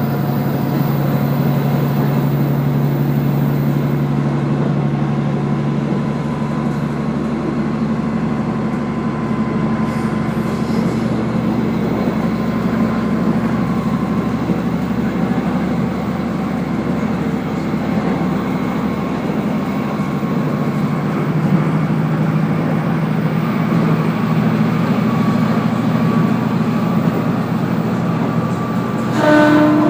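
Diesel railcar running along the line, heard from inside the carriage: a steady engine drone over wheel and rail noise, the engine note changing a few seconds in. Just before the end comes a brief, louder pitched tone.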